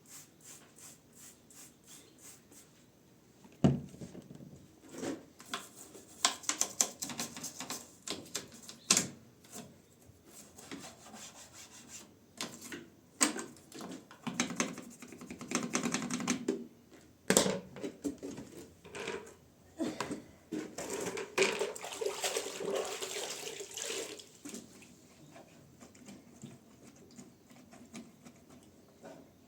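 Water splashing and running in short spells, mixed with many knocks and clatters of things being handled.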